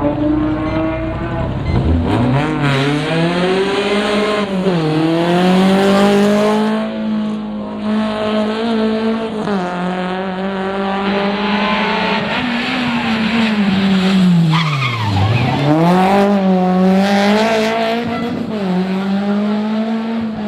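A rally car's engine driven hard, its revs sweeping up and down through the gears. The pitch drops deeply twice, about two seconds in and again near three-quarters of the way through, and climbs back up each time.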